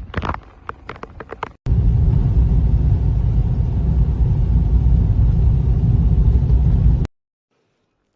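A quick run of sharp clicks, then a sudden cut to a loud, steady rumble of strong blizzard wind buffeting the microphone, which cuts off abruptly about seven seconds in.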